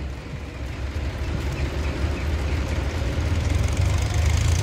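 Car engine idling: a low, steady rumble that grows a little louder toward the end.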